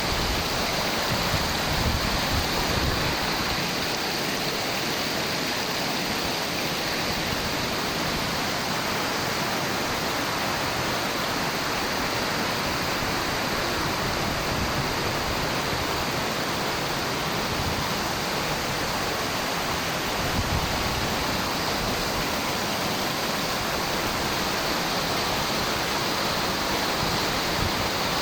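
Spring water gushing and cascading in a steady rush of water noise.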